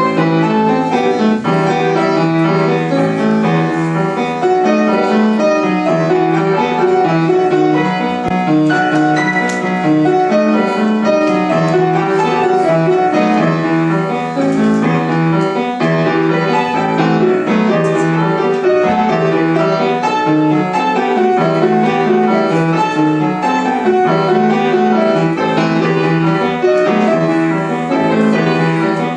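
Piano music, melody and chords played without a break.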